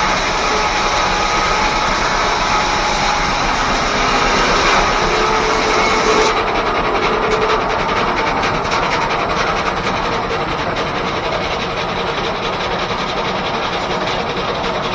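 Steam-engine-driven 1880s R.R. Howell sawmill running, a dense steady machinery noise of saw and drive with a faint whine that eases about six seconds in.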